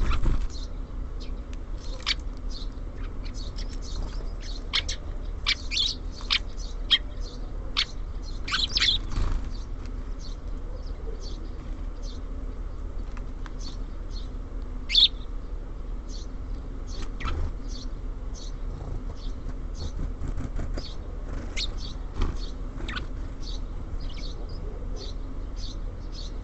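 Small songbirds at a bird feeder giving frequent short, high chirps, busiest in the first third with one louder call about halfway through, over a steady low background hum.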